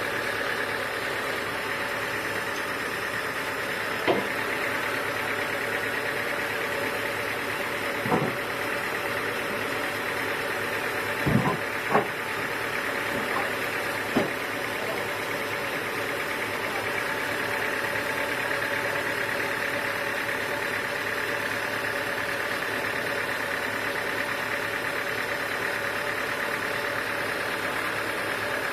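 Sawmill machinery running with a steady hum, with a few sharp knocks between about 4 and 14 seconds in.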